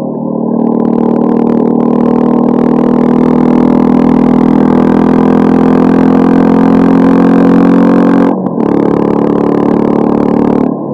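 Honda CB350 custom scrambler's engine through its modified stock exhaust, pulling under throttle with its pitch slowly rising. About eight seconds in the revs dip briefly, then it runs on steadily and drops again near the end.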